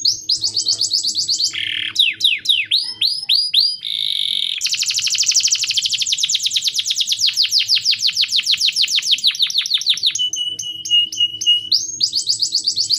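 Male canary singing a long, unbroken song of rapidly repeated notes. A run of falling whistled sweeps comes about two seconds in, then a long fast trill from about five to ten seconds, before it returns to quick chirping phrases.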